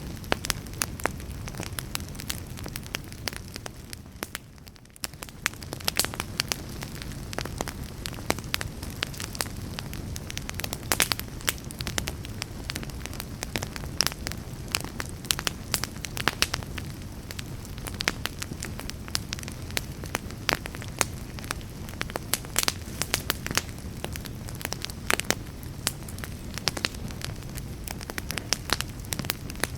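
Wood fire burning in a fireplace: a steady low rumble of flames with frequent sharp crackles and pops from the burning logs. The fire briefly drops quieter about four to five seconds in, then returns.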